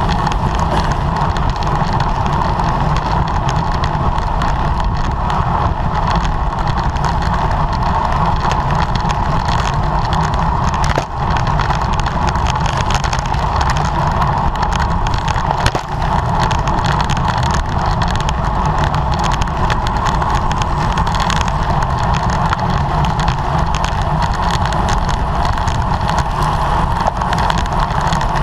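Steady rush of wind over a bicycle-mounted camera's microphone while riding at speed, over the rumble of tyres on the road.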